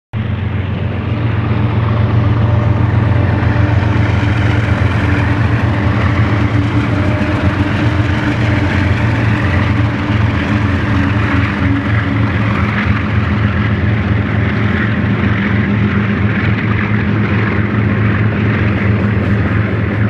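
Freight train with BNSF diesel locomotives passing close by: a steady low engine drone under the rumble of wheels on rail, with double-stack container cars rolling past by the end.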